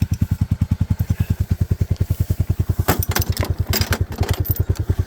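Honda Big Red three-wheeler's single-cylinder engine idling with a steady, even thump, about nine or ten beats a second. A few sharp metallic clanks come about three seconds in and again shortly before four seconds.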